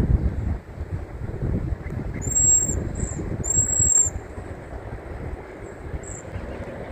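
High, thin, drawn-out whistled calls of waxwings, a few notes about two to four seconds in and a short one near the end, over wind rumbling on the microphone.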